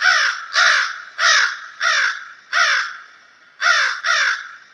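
A crow cawing repeatedly: about seven harsh caws, each falling slightly in pitch, in a steady series with a brief pause about three seconds in.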